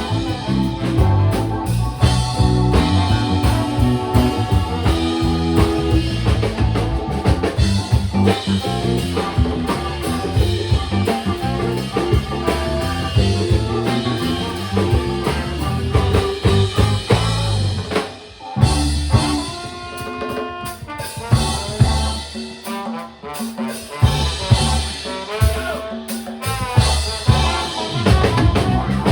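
Funk band playing live, with drum kit to the fore. About two-thirds of the way through, the sound drops out briefly, then a quieter, sparser stretch follows before the full band comes back near the end.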